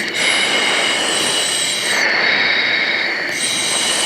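Cockpit noise of a T-6 Texan II's PT6A turboprop engine: a steady rush with a high whine on several tones, on the approach to landing with flaps set for landing. The highest tones fade for about a second midway.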